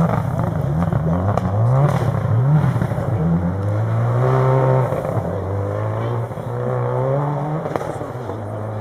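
Subaru Impreza WRX STI rally car's turbocharged flat-four boxer engine revving in quick repeated bursts as the car works its way out after going off the stage. After about three and a half seconds the revs stop rising and the engine holds a steady, slightly lower note.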